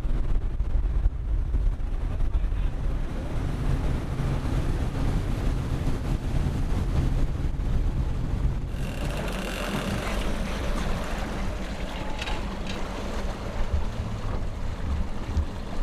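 A boat's engines run steadily with a low rumble, and wind buffets the microphone. About nine seconds in, the rumble eases and a brighter hiss comes up.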